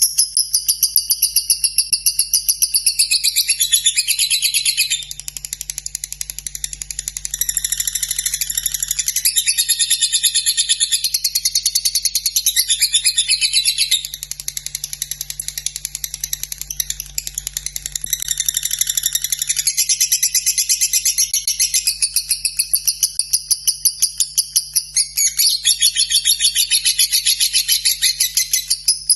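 Lovebird's long unbroken 'ngekek' chatter: a rapid, high-pitched ticking trill that runs on without pause, with a faint steady low hum underneath.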